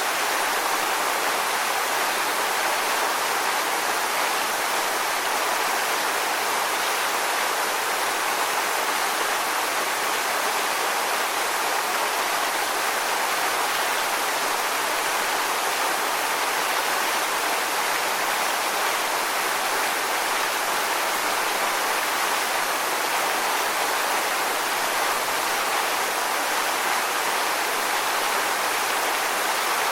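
Steady rushing water: an even, unbroken hiss with no swells or separate splashes.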